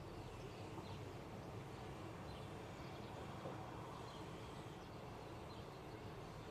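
Faint bird chirps, short and spaced about a second apart, over a steady low background hum of outdoor ambience.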